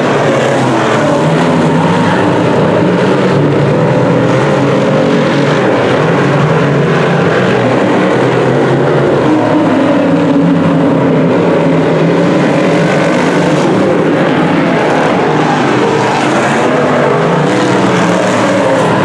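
A pack of DIRTcar Sportsman modified race cars racing on a dirt oval. Several V8 engines run at high revs together, with pitches overlapping and rising and falling as the cars accelerate and lift through the turns.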